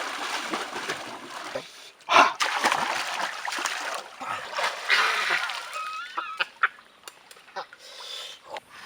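Water splashing and sloshing as hands work through shallow water, with one loud splash about two seconds in. A short wavering pitched call comes around six seconds in, followed by a few sharp knocks.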